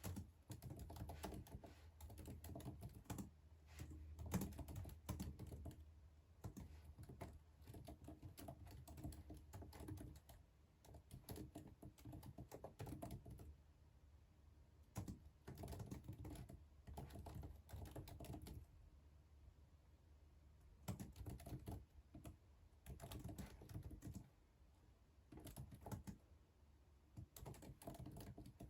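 Faint typing on a computer keyboard: quick runs of key clicks in bursts, broken by short pauses.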